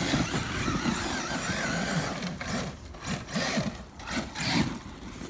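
Losi LST XXL2-E radio-control monster truck's electric motor whining, its pitch rising and falling again and again with the throttle as the truck scales a dirt mound.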